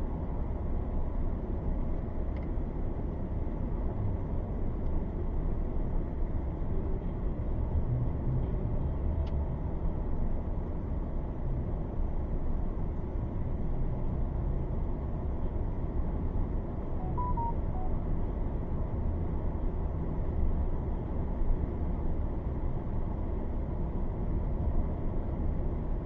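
Thunderstorm: a steady, unbroken low rumble of storm wind and rain, heaviest in the bass, with no distinct thunderclaps. A few faint short beeps about seventeen seconds in.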